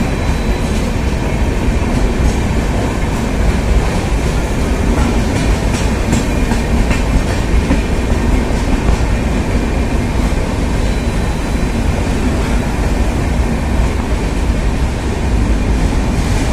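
Passenger train of LHB coaches running on the track, a steady, loud noise of wheels on rails.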